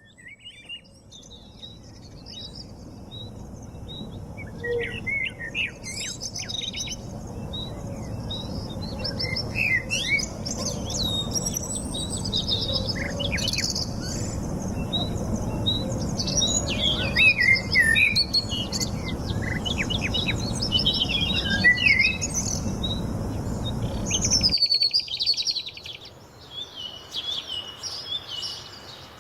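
Many birds chirping and singing together, a dense mix of short whistles and trills, over a low background rumble. The sound fades in at the start, and about 24 seconds in the rumble cuts off suddenly while the birdsong goes on.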